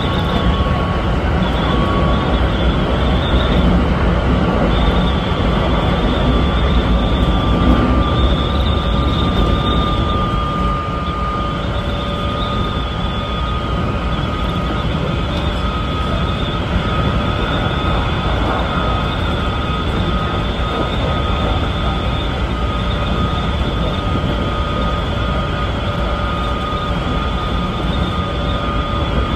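Keikyu 1500-series electric train running at speed, heard from inside the driver's cab. There is a steady wheel-and-track running noise and a thin motor whine that rises slowly in pitch over the first half, then holds steady.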